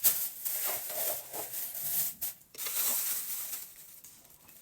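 Thin plastic bag rustling and crinkling in irregular bursts as it is handled, easing off near the end.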